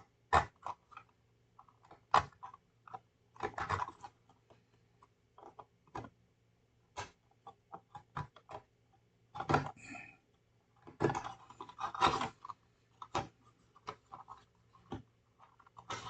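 Irregular small clicks, taps and short scrapes of a glued plastic model part being worked loose with a hobby knife, with a few brief scratchy runs in the middle.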